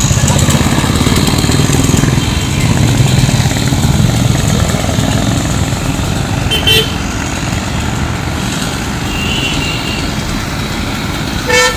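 Street traffic with motorcycle and car engines running, and two short vehicle horn toots, one about halfway through and one near the end.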